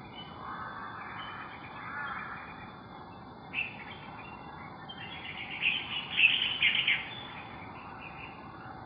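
Birds chirping and calling in short notes, with a louder cluster of quick chirps about six seconds in.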